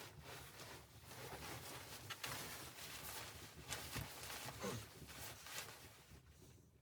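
Close rustling and scraping handling noise with a few soft knocks, busiest in the middle and dying away near the end.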